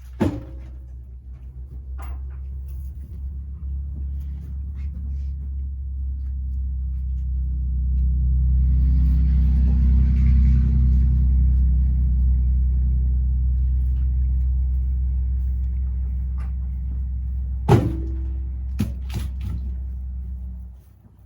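A motor vehicle's engine running steadily with a low hum. It grows louder toward the middle and eases off again, with a couple of sharp knocks, and cuts off just before the end.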